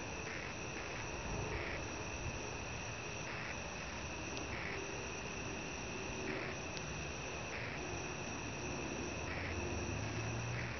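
Insects trilling steadily in a high, continuous tone that breaks briefly about once a second, over a steady hiss.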